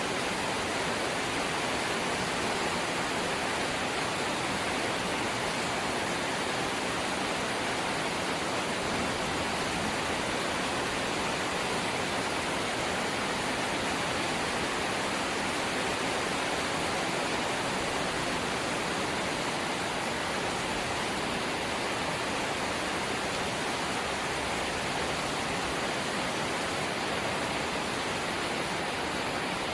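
Light rain falling steadily, an even hiss with no single drops or gusts standing out.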